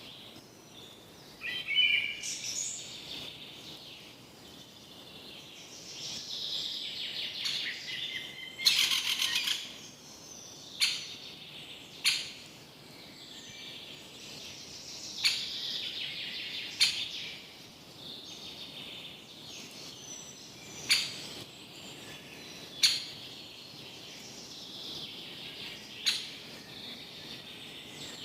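Several birds singing and chirping, with a loud, sharp call note every two to four seconds. About nine seconds in comes a burst of rapid clicks lasting about a second.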